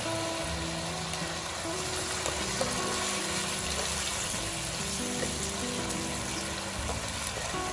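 Pork ribs and sauce sizzling in a wok as water is poured in, under background music of held notes.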